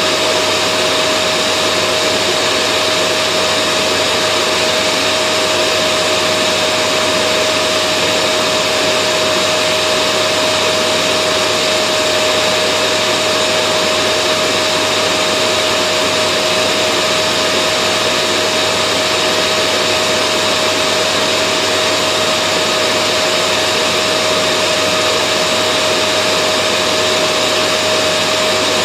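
Vacuum cleaner running steadily: an unbroken rush of air with a constant motor whine in it, no change in speed or pitch.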